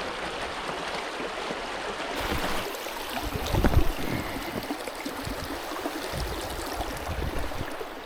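River water rushing steadily over a shallow rocky stretch. A few low thumps come in partway through, the loudest about three and a half seconds in.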